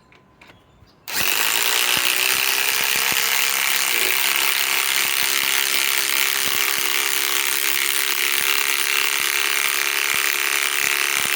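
Ryobi PSBIW25 compact impact wrench starting about a second in and hammering continuously as it drives a 5/16 by 3 inch galvanized lag screw into wood with no pilot hole.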